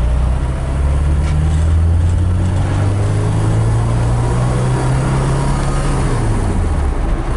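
1975 BMW 2002's 2.0-litre four-cylinder engine pulling under acceleration, its pitch climbing steadily, then dropping about six seconds in as the four-speed manual gearbox is shifted up. The engine is still a little cold from a fresh start.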